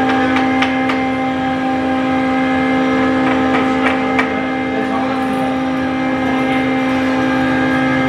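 A woodworking machine's motor running at a steady pitch, with scattered sharp knocks and taps of wood on wood.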